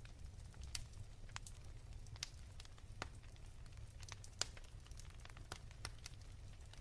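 Wood fire crackling softly in a fireplace: irregular sharp pops and snaps, one louder pop a little past the middle, over a low steady rumble.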